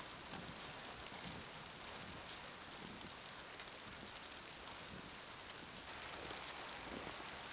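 Steady hiss of a snowstorm, with fine ticking of falling snow on surfaces.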